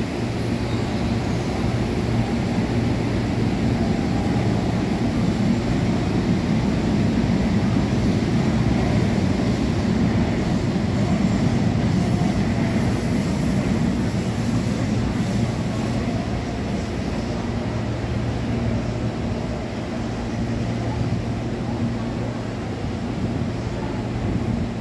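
Electric commuter train running on the station tracks: a steady rumble with a low, even hum, loudest through the first half and easing off in the second.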